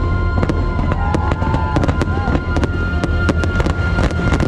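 Fireworks show: a rapid series of sharp firework bangs and cracks over the show's music soundtrack, which has a long held tone.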